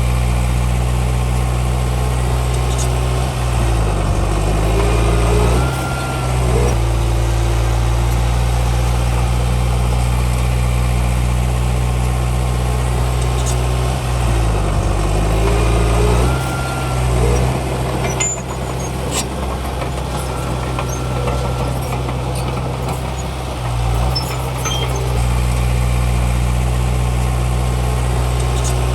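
Heavy diesel engine of earthmoving machinery running steadily, its pitch dipping and coming back up several times as it works under changing load, with a few faint knocks about midway.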